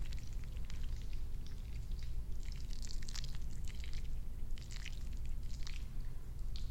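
Hair being worked close to the microphone: clusters of rustling crackle come and go every second or so over a steady low hum, typical of lathered hair being scrubbed.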